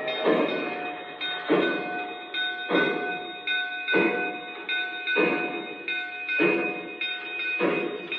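Digital sound system of an O scale model steam locomotive chuffing at a slow, even pace, with a strong chuff about every second and weaker ones between. Steady high tones are held underneath.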